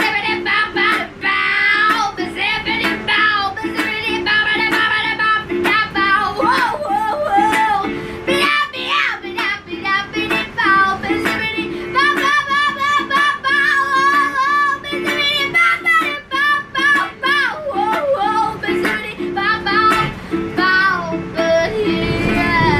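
A young girl singing a melody with long, wavering held notes, accompanied by a steadily strummed ukulele.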